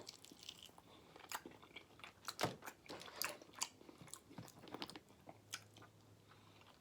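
A person chewing food close to the microphone: faint, irregular mouth clicks and smacks, a few a second.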